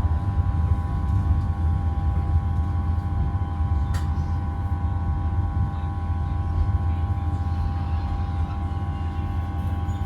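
Interior of a Class 323 electric multiple unit: a steady low rumble with a steady whine of several tones, and a single click about four seconds in.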